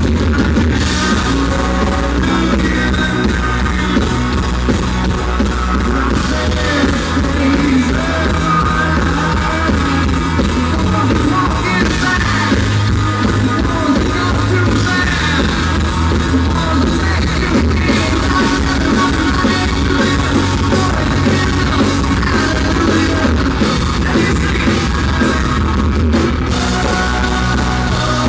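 Live country-rock band playing loud, with drum kit, electric guitar and lead vocals, in a bad sound recording.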